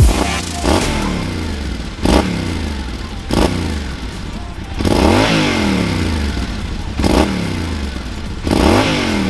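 Yamaha Ténéré 700's parallel-twin engine breathing through a GPR GP Anniversary titanium exhaust, revved in about six quick throttle blips, each rising sharply in pitch and falling back toward idle.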